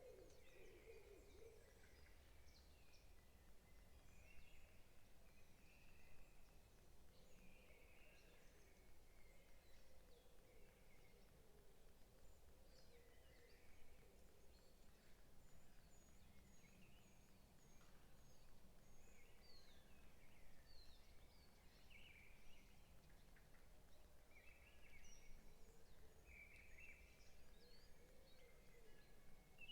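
Faint woodland ambience: several birds chirping and calling on and off, with a high thin run of about eight short notes around the middle, over a steady low rumble.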